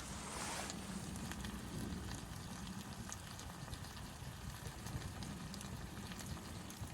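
Wood fire crackling, with scattered small pops over a steady low rumble.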